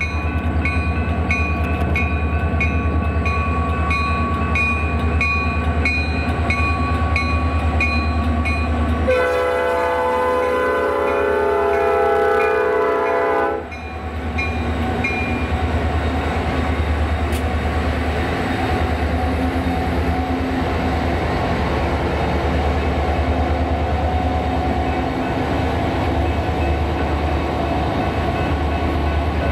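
Train running past with a steady low rumble, a bell ringing about twice a second, and one long blast of a multi-note train horn about nine seconds in that lasts some four seconds.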